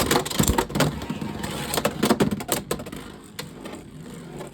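Two Beyblade X tops spinning and colliding in a plastic stadium: a rapid clatter of sharp hits and rattles, thinning out toward the end as one top is knocked into the over pocket.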